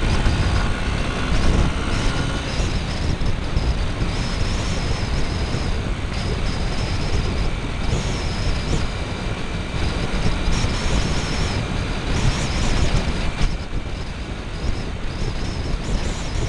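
Motorcycle on the move: engine and road noise under heavy wind buffeting, picked up by a mini camera cable-tied to the bike.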